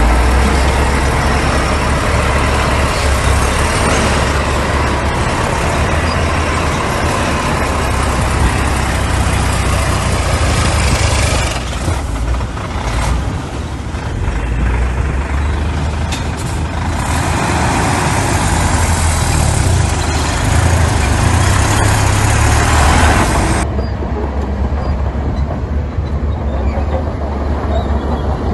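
Heavy diesel earthmoving machinery running continuously, a steady low engine drone under a wide mechanical clatter and hiss.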